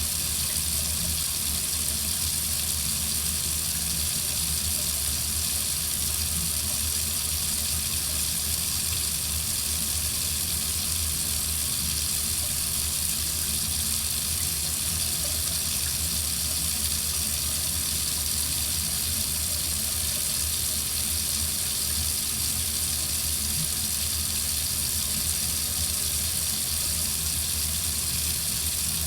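Water faucet running in a steady, unbroken stream.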